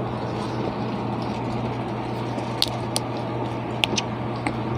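A steady low hum, with a few short sharp clicks from about two and a half seconds in, from food and packaging being handled while eating.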